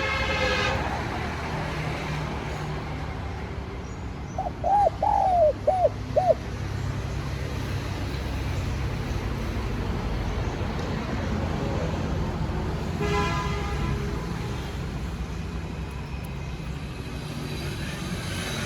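Spotted dove cooing: one phrase of about five short arched notes, about four to six seconds in, over a steady low background rumble. A brief, higher sound with many overtones comes about thirteen seconds in.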